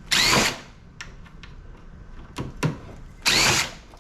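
Power drill/driver running in two short bursts of about half a second, about three seconds apart, each with a quick rise and fall in pitch: backing screws out of an air-conditioner housing.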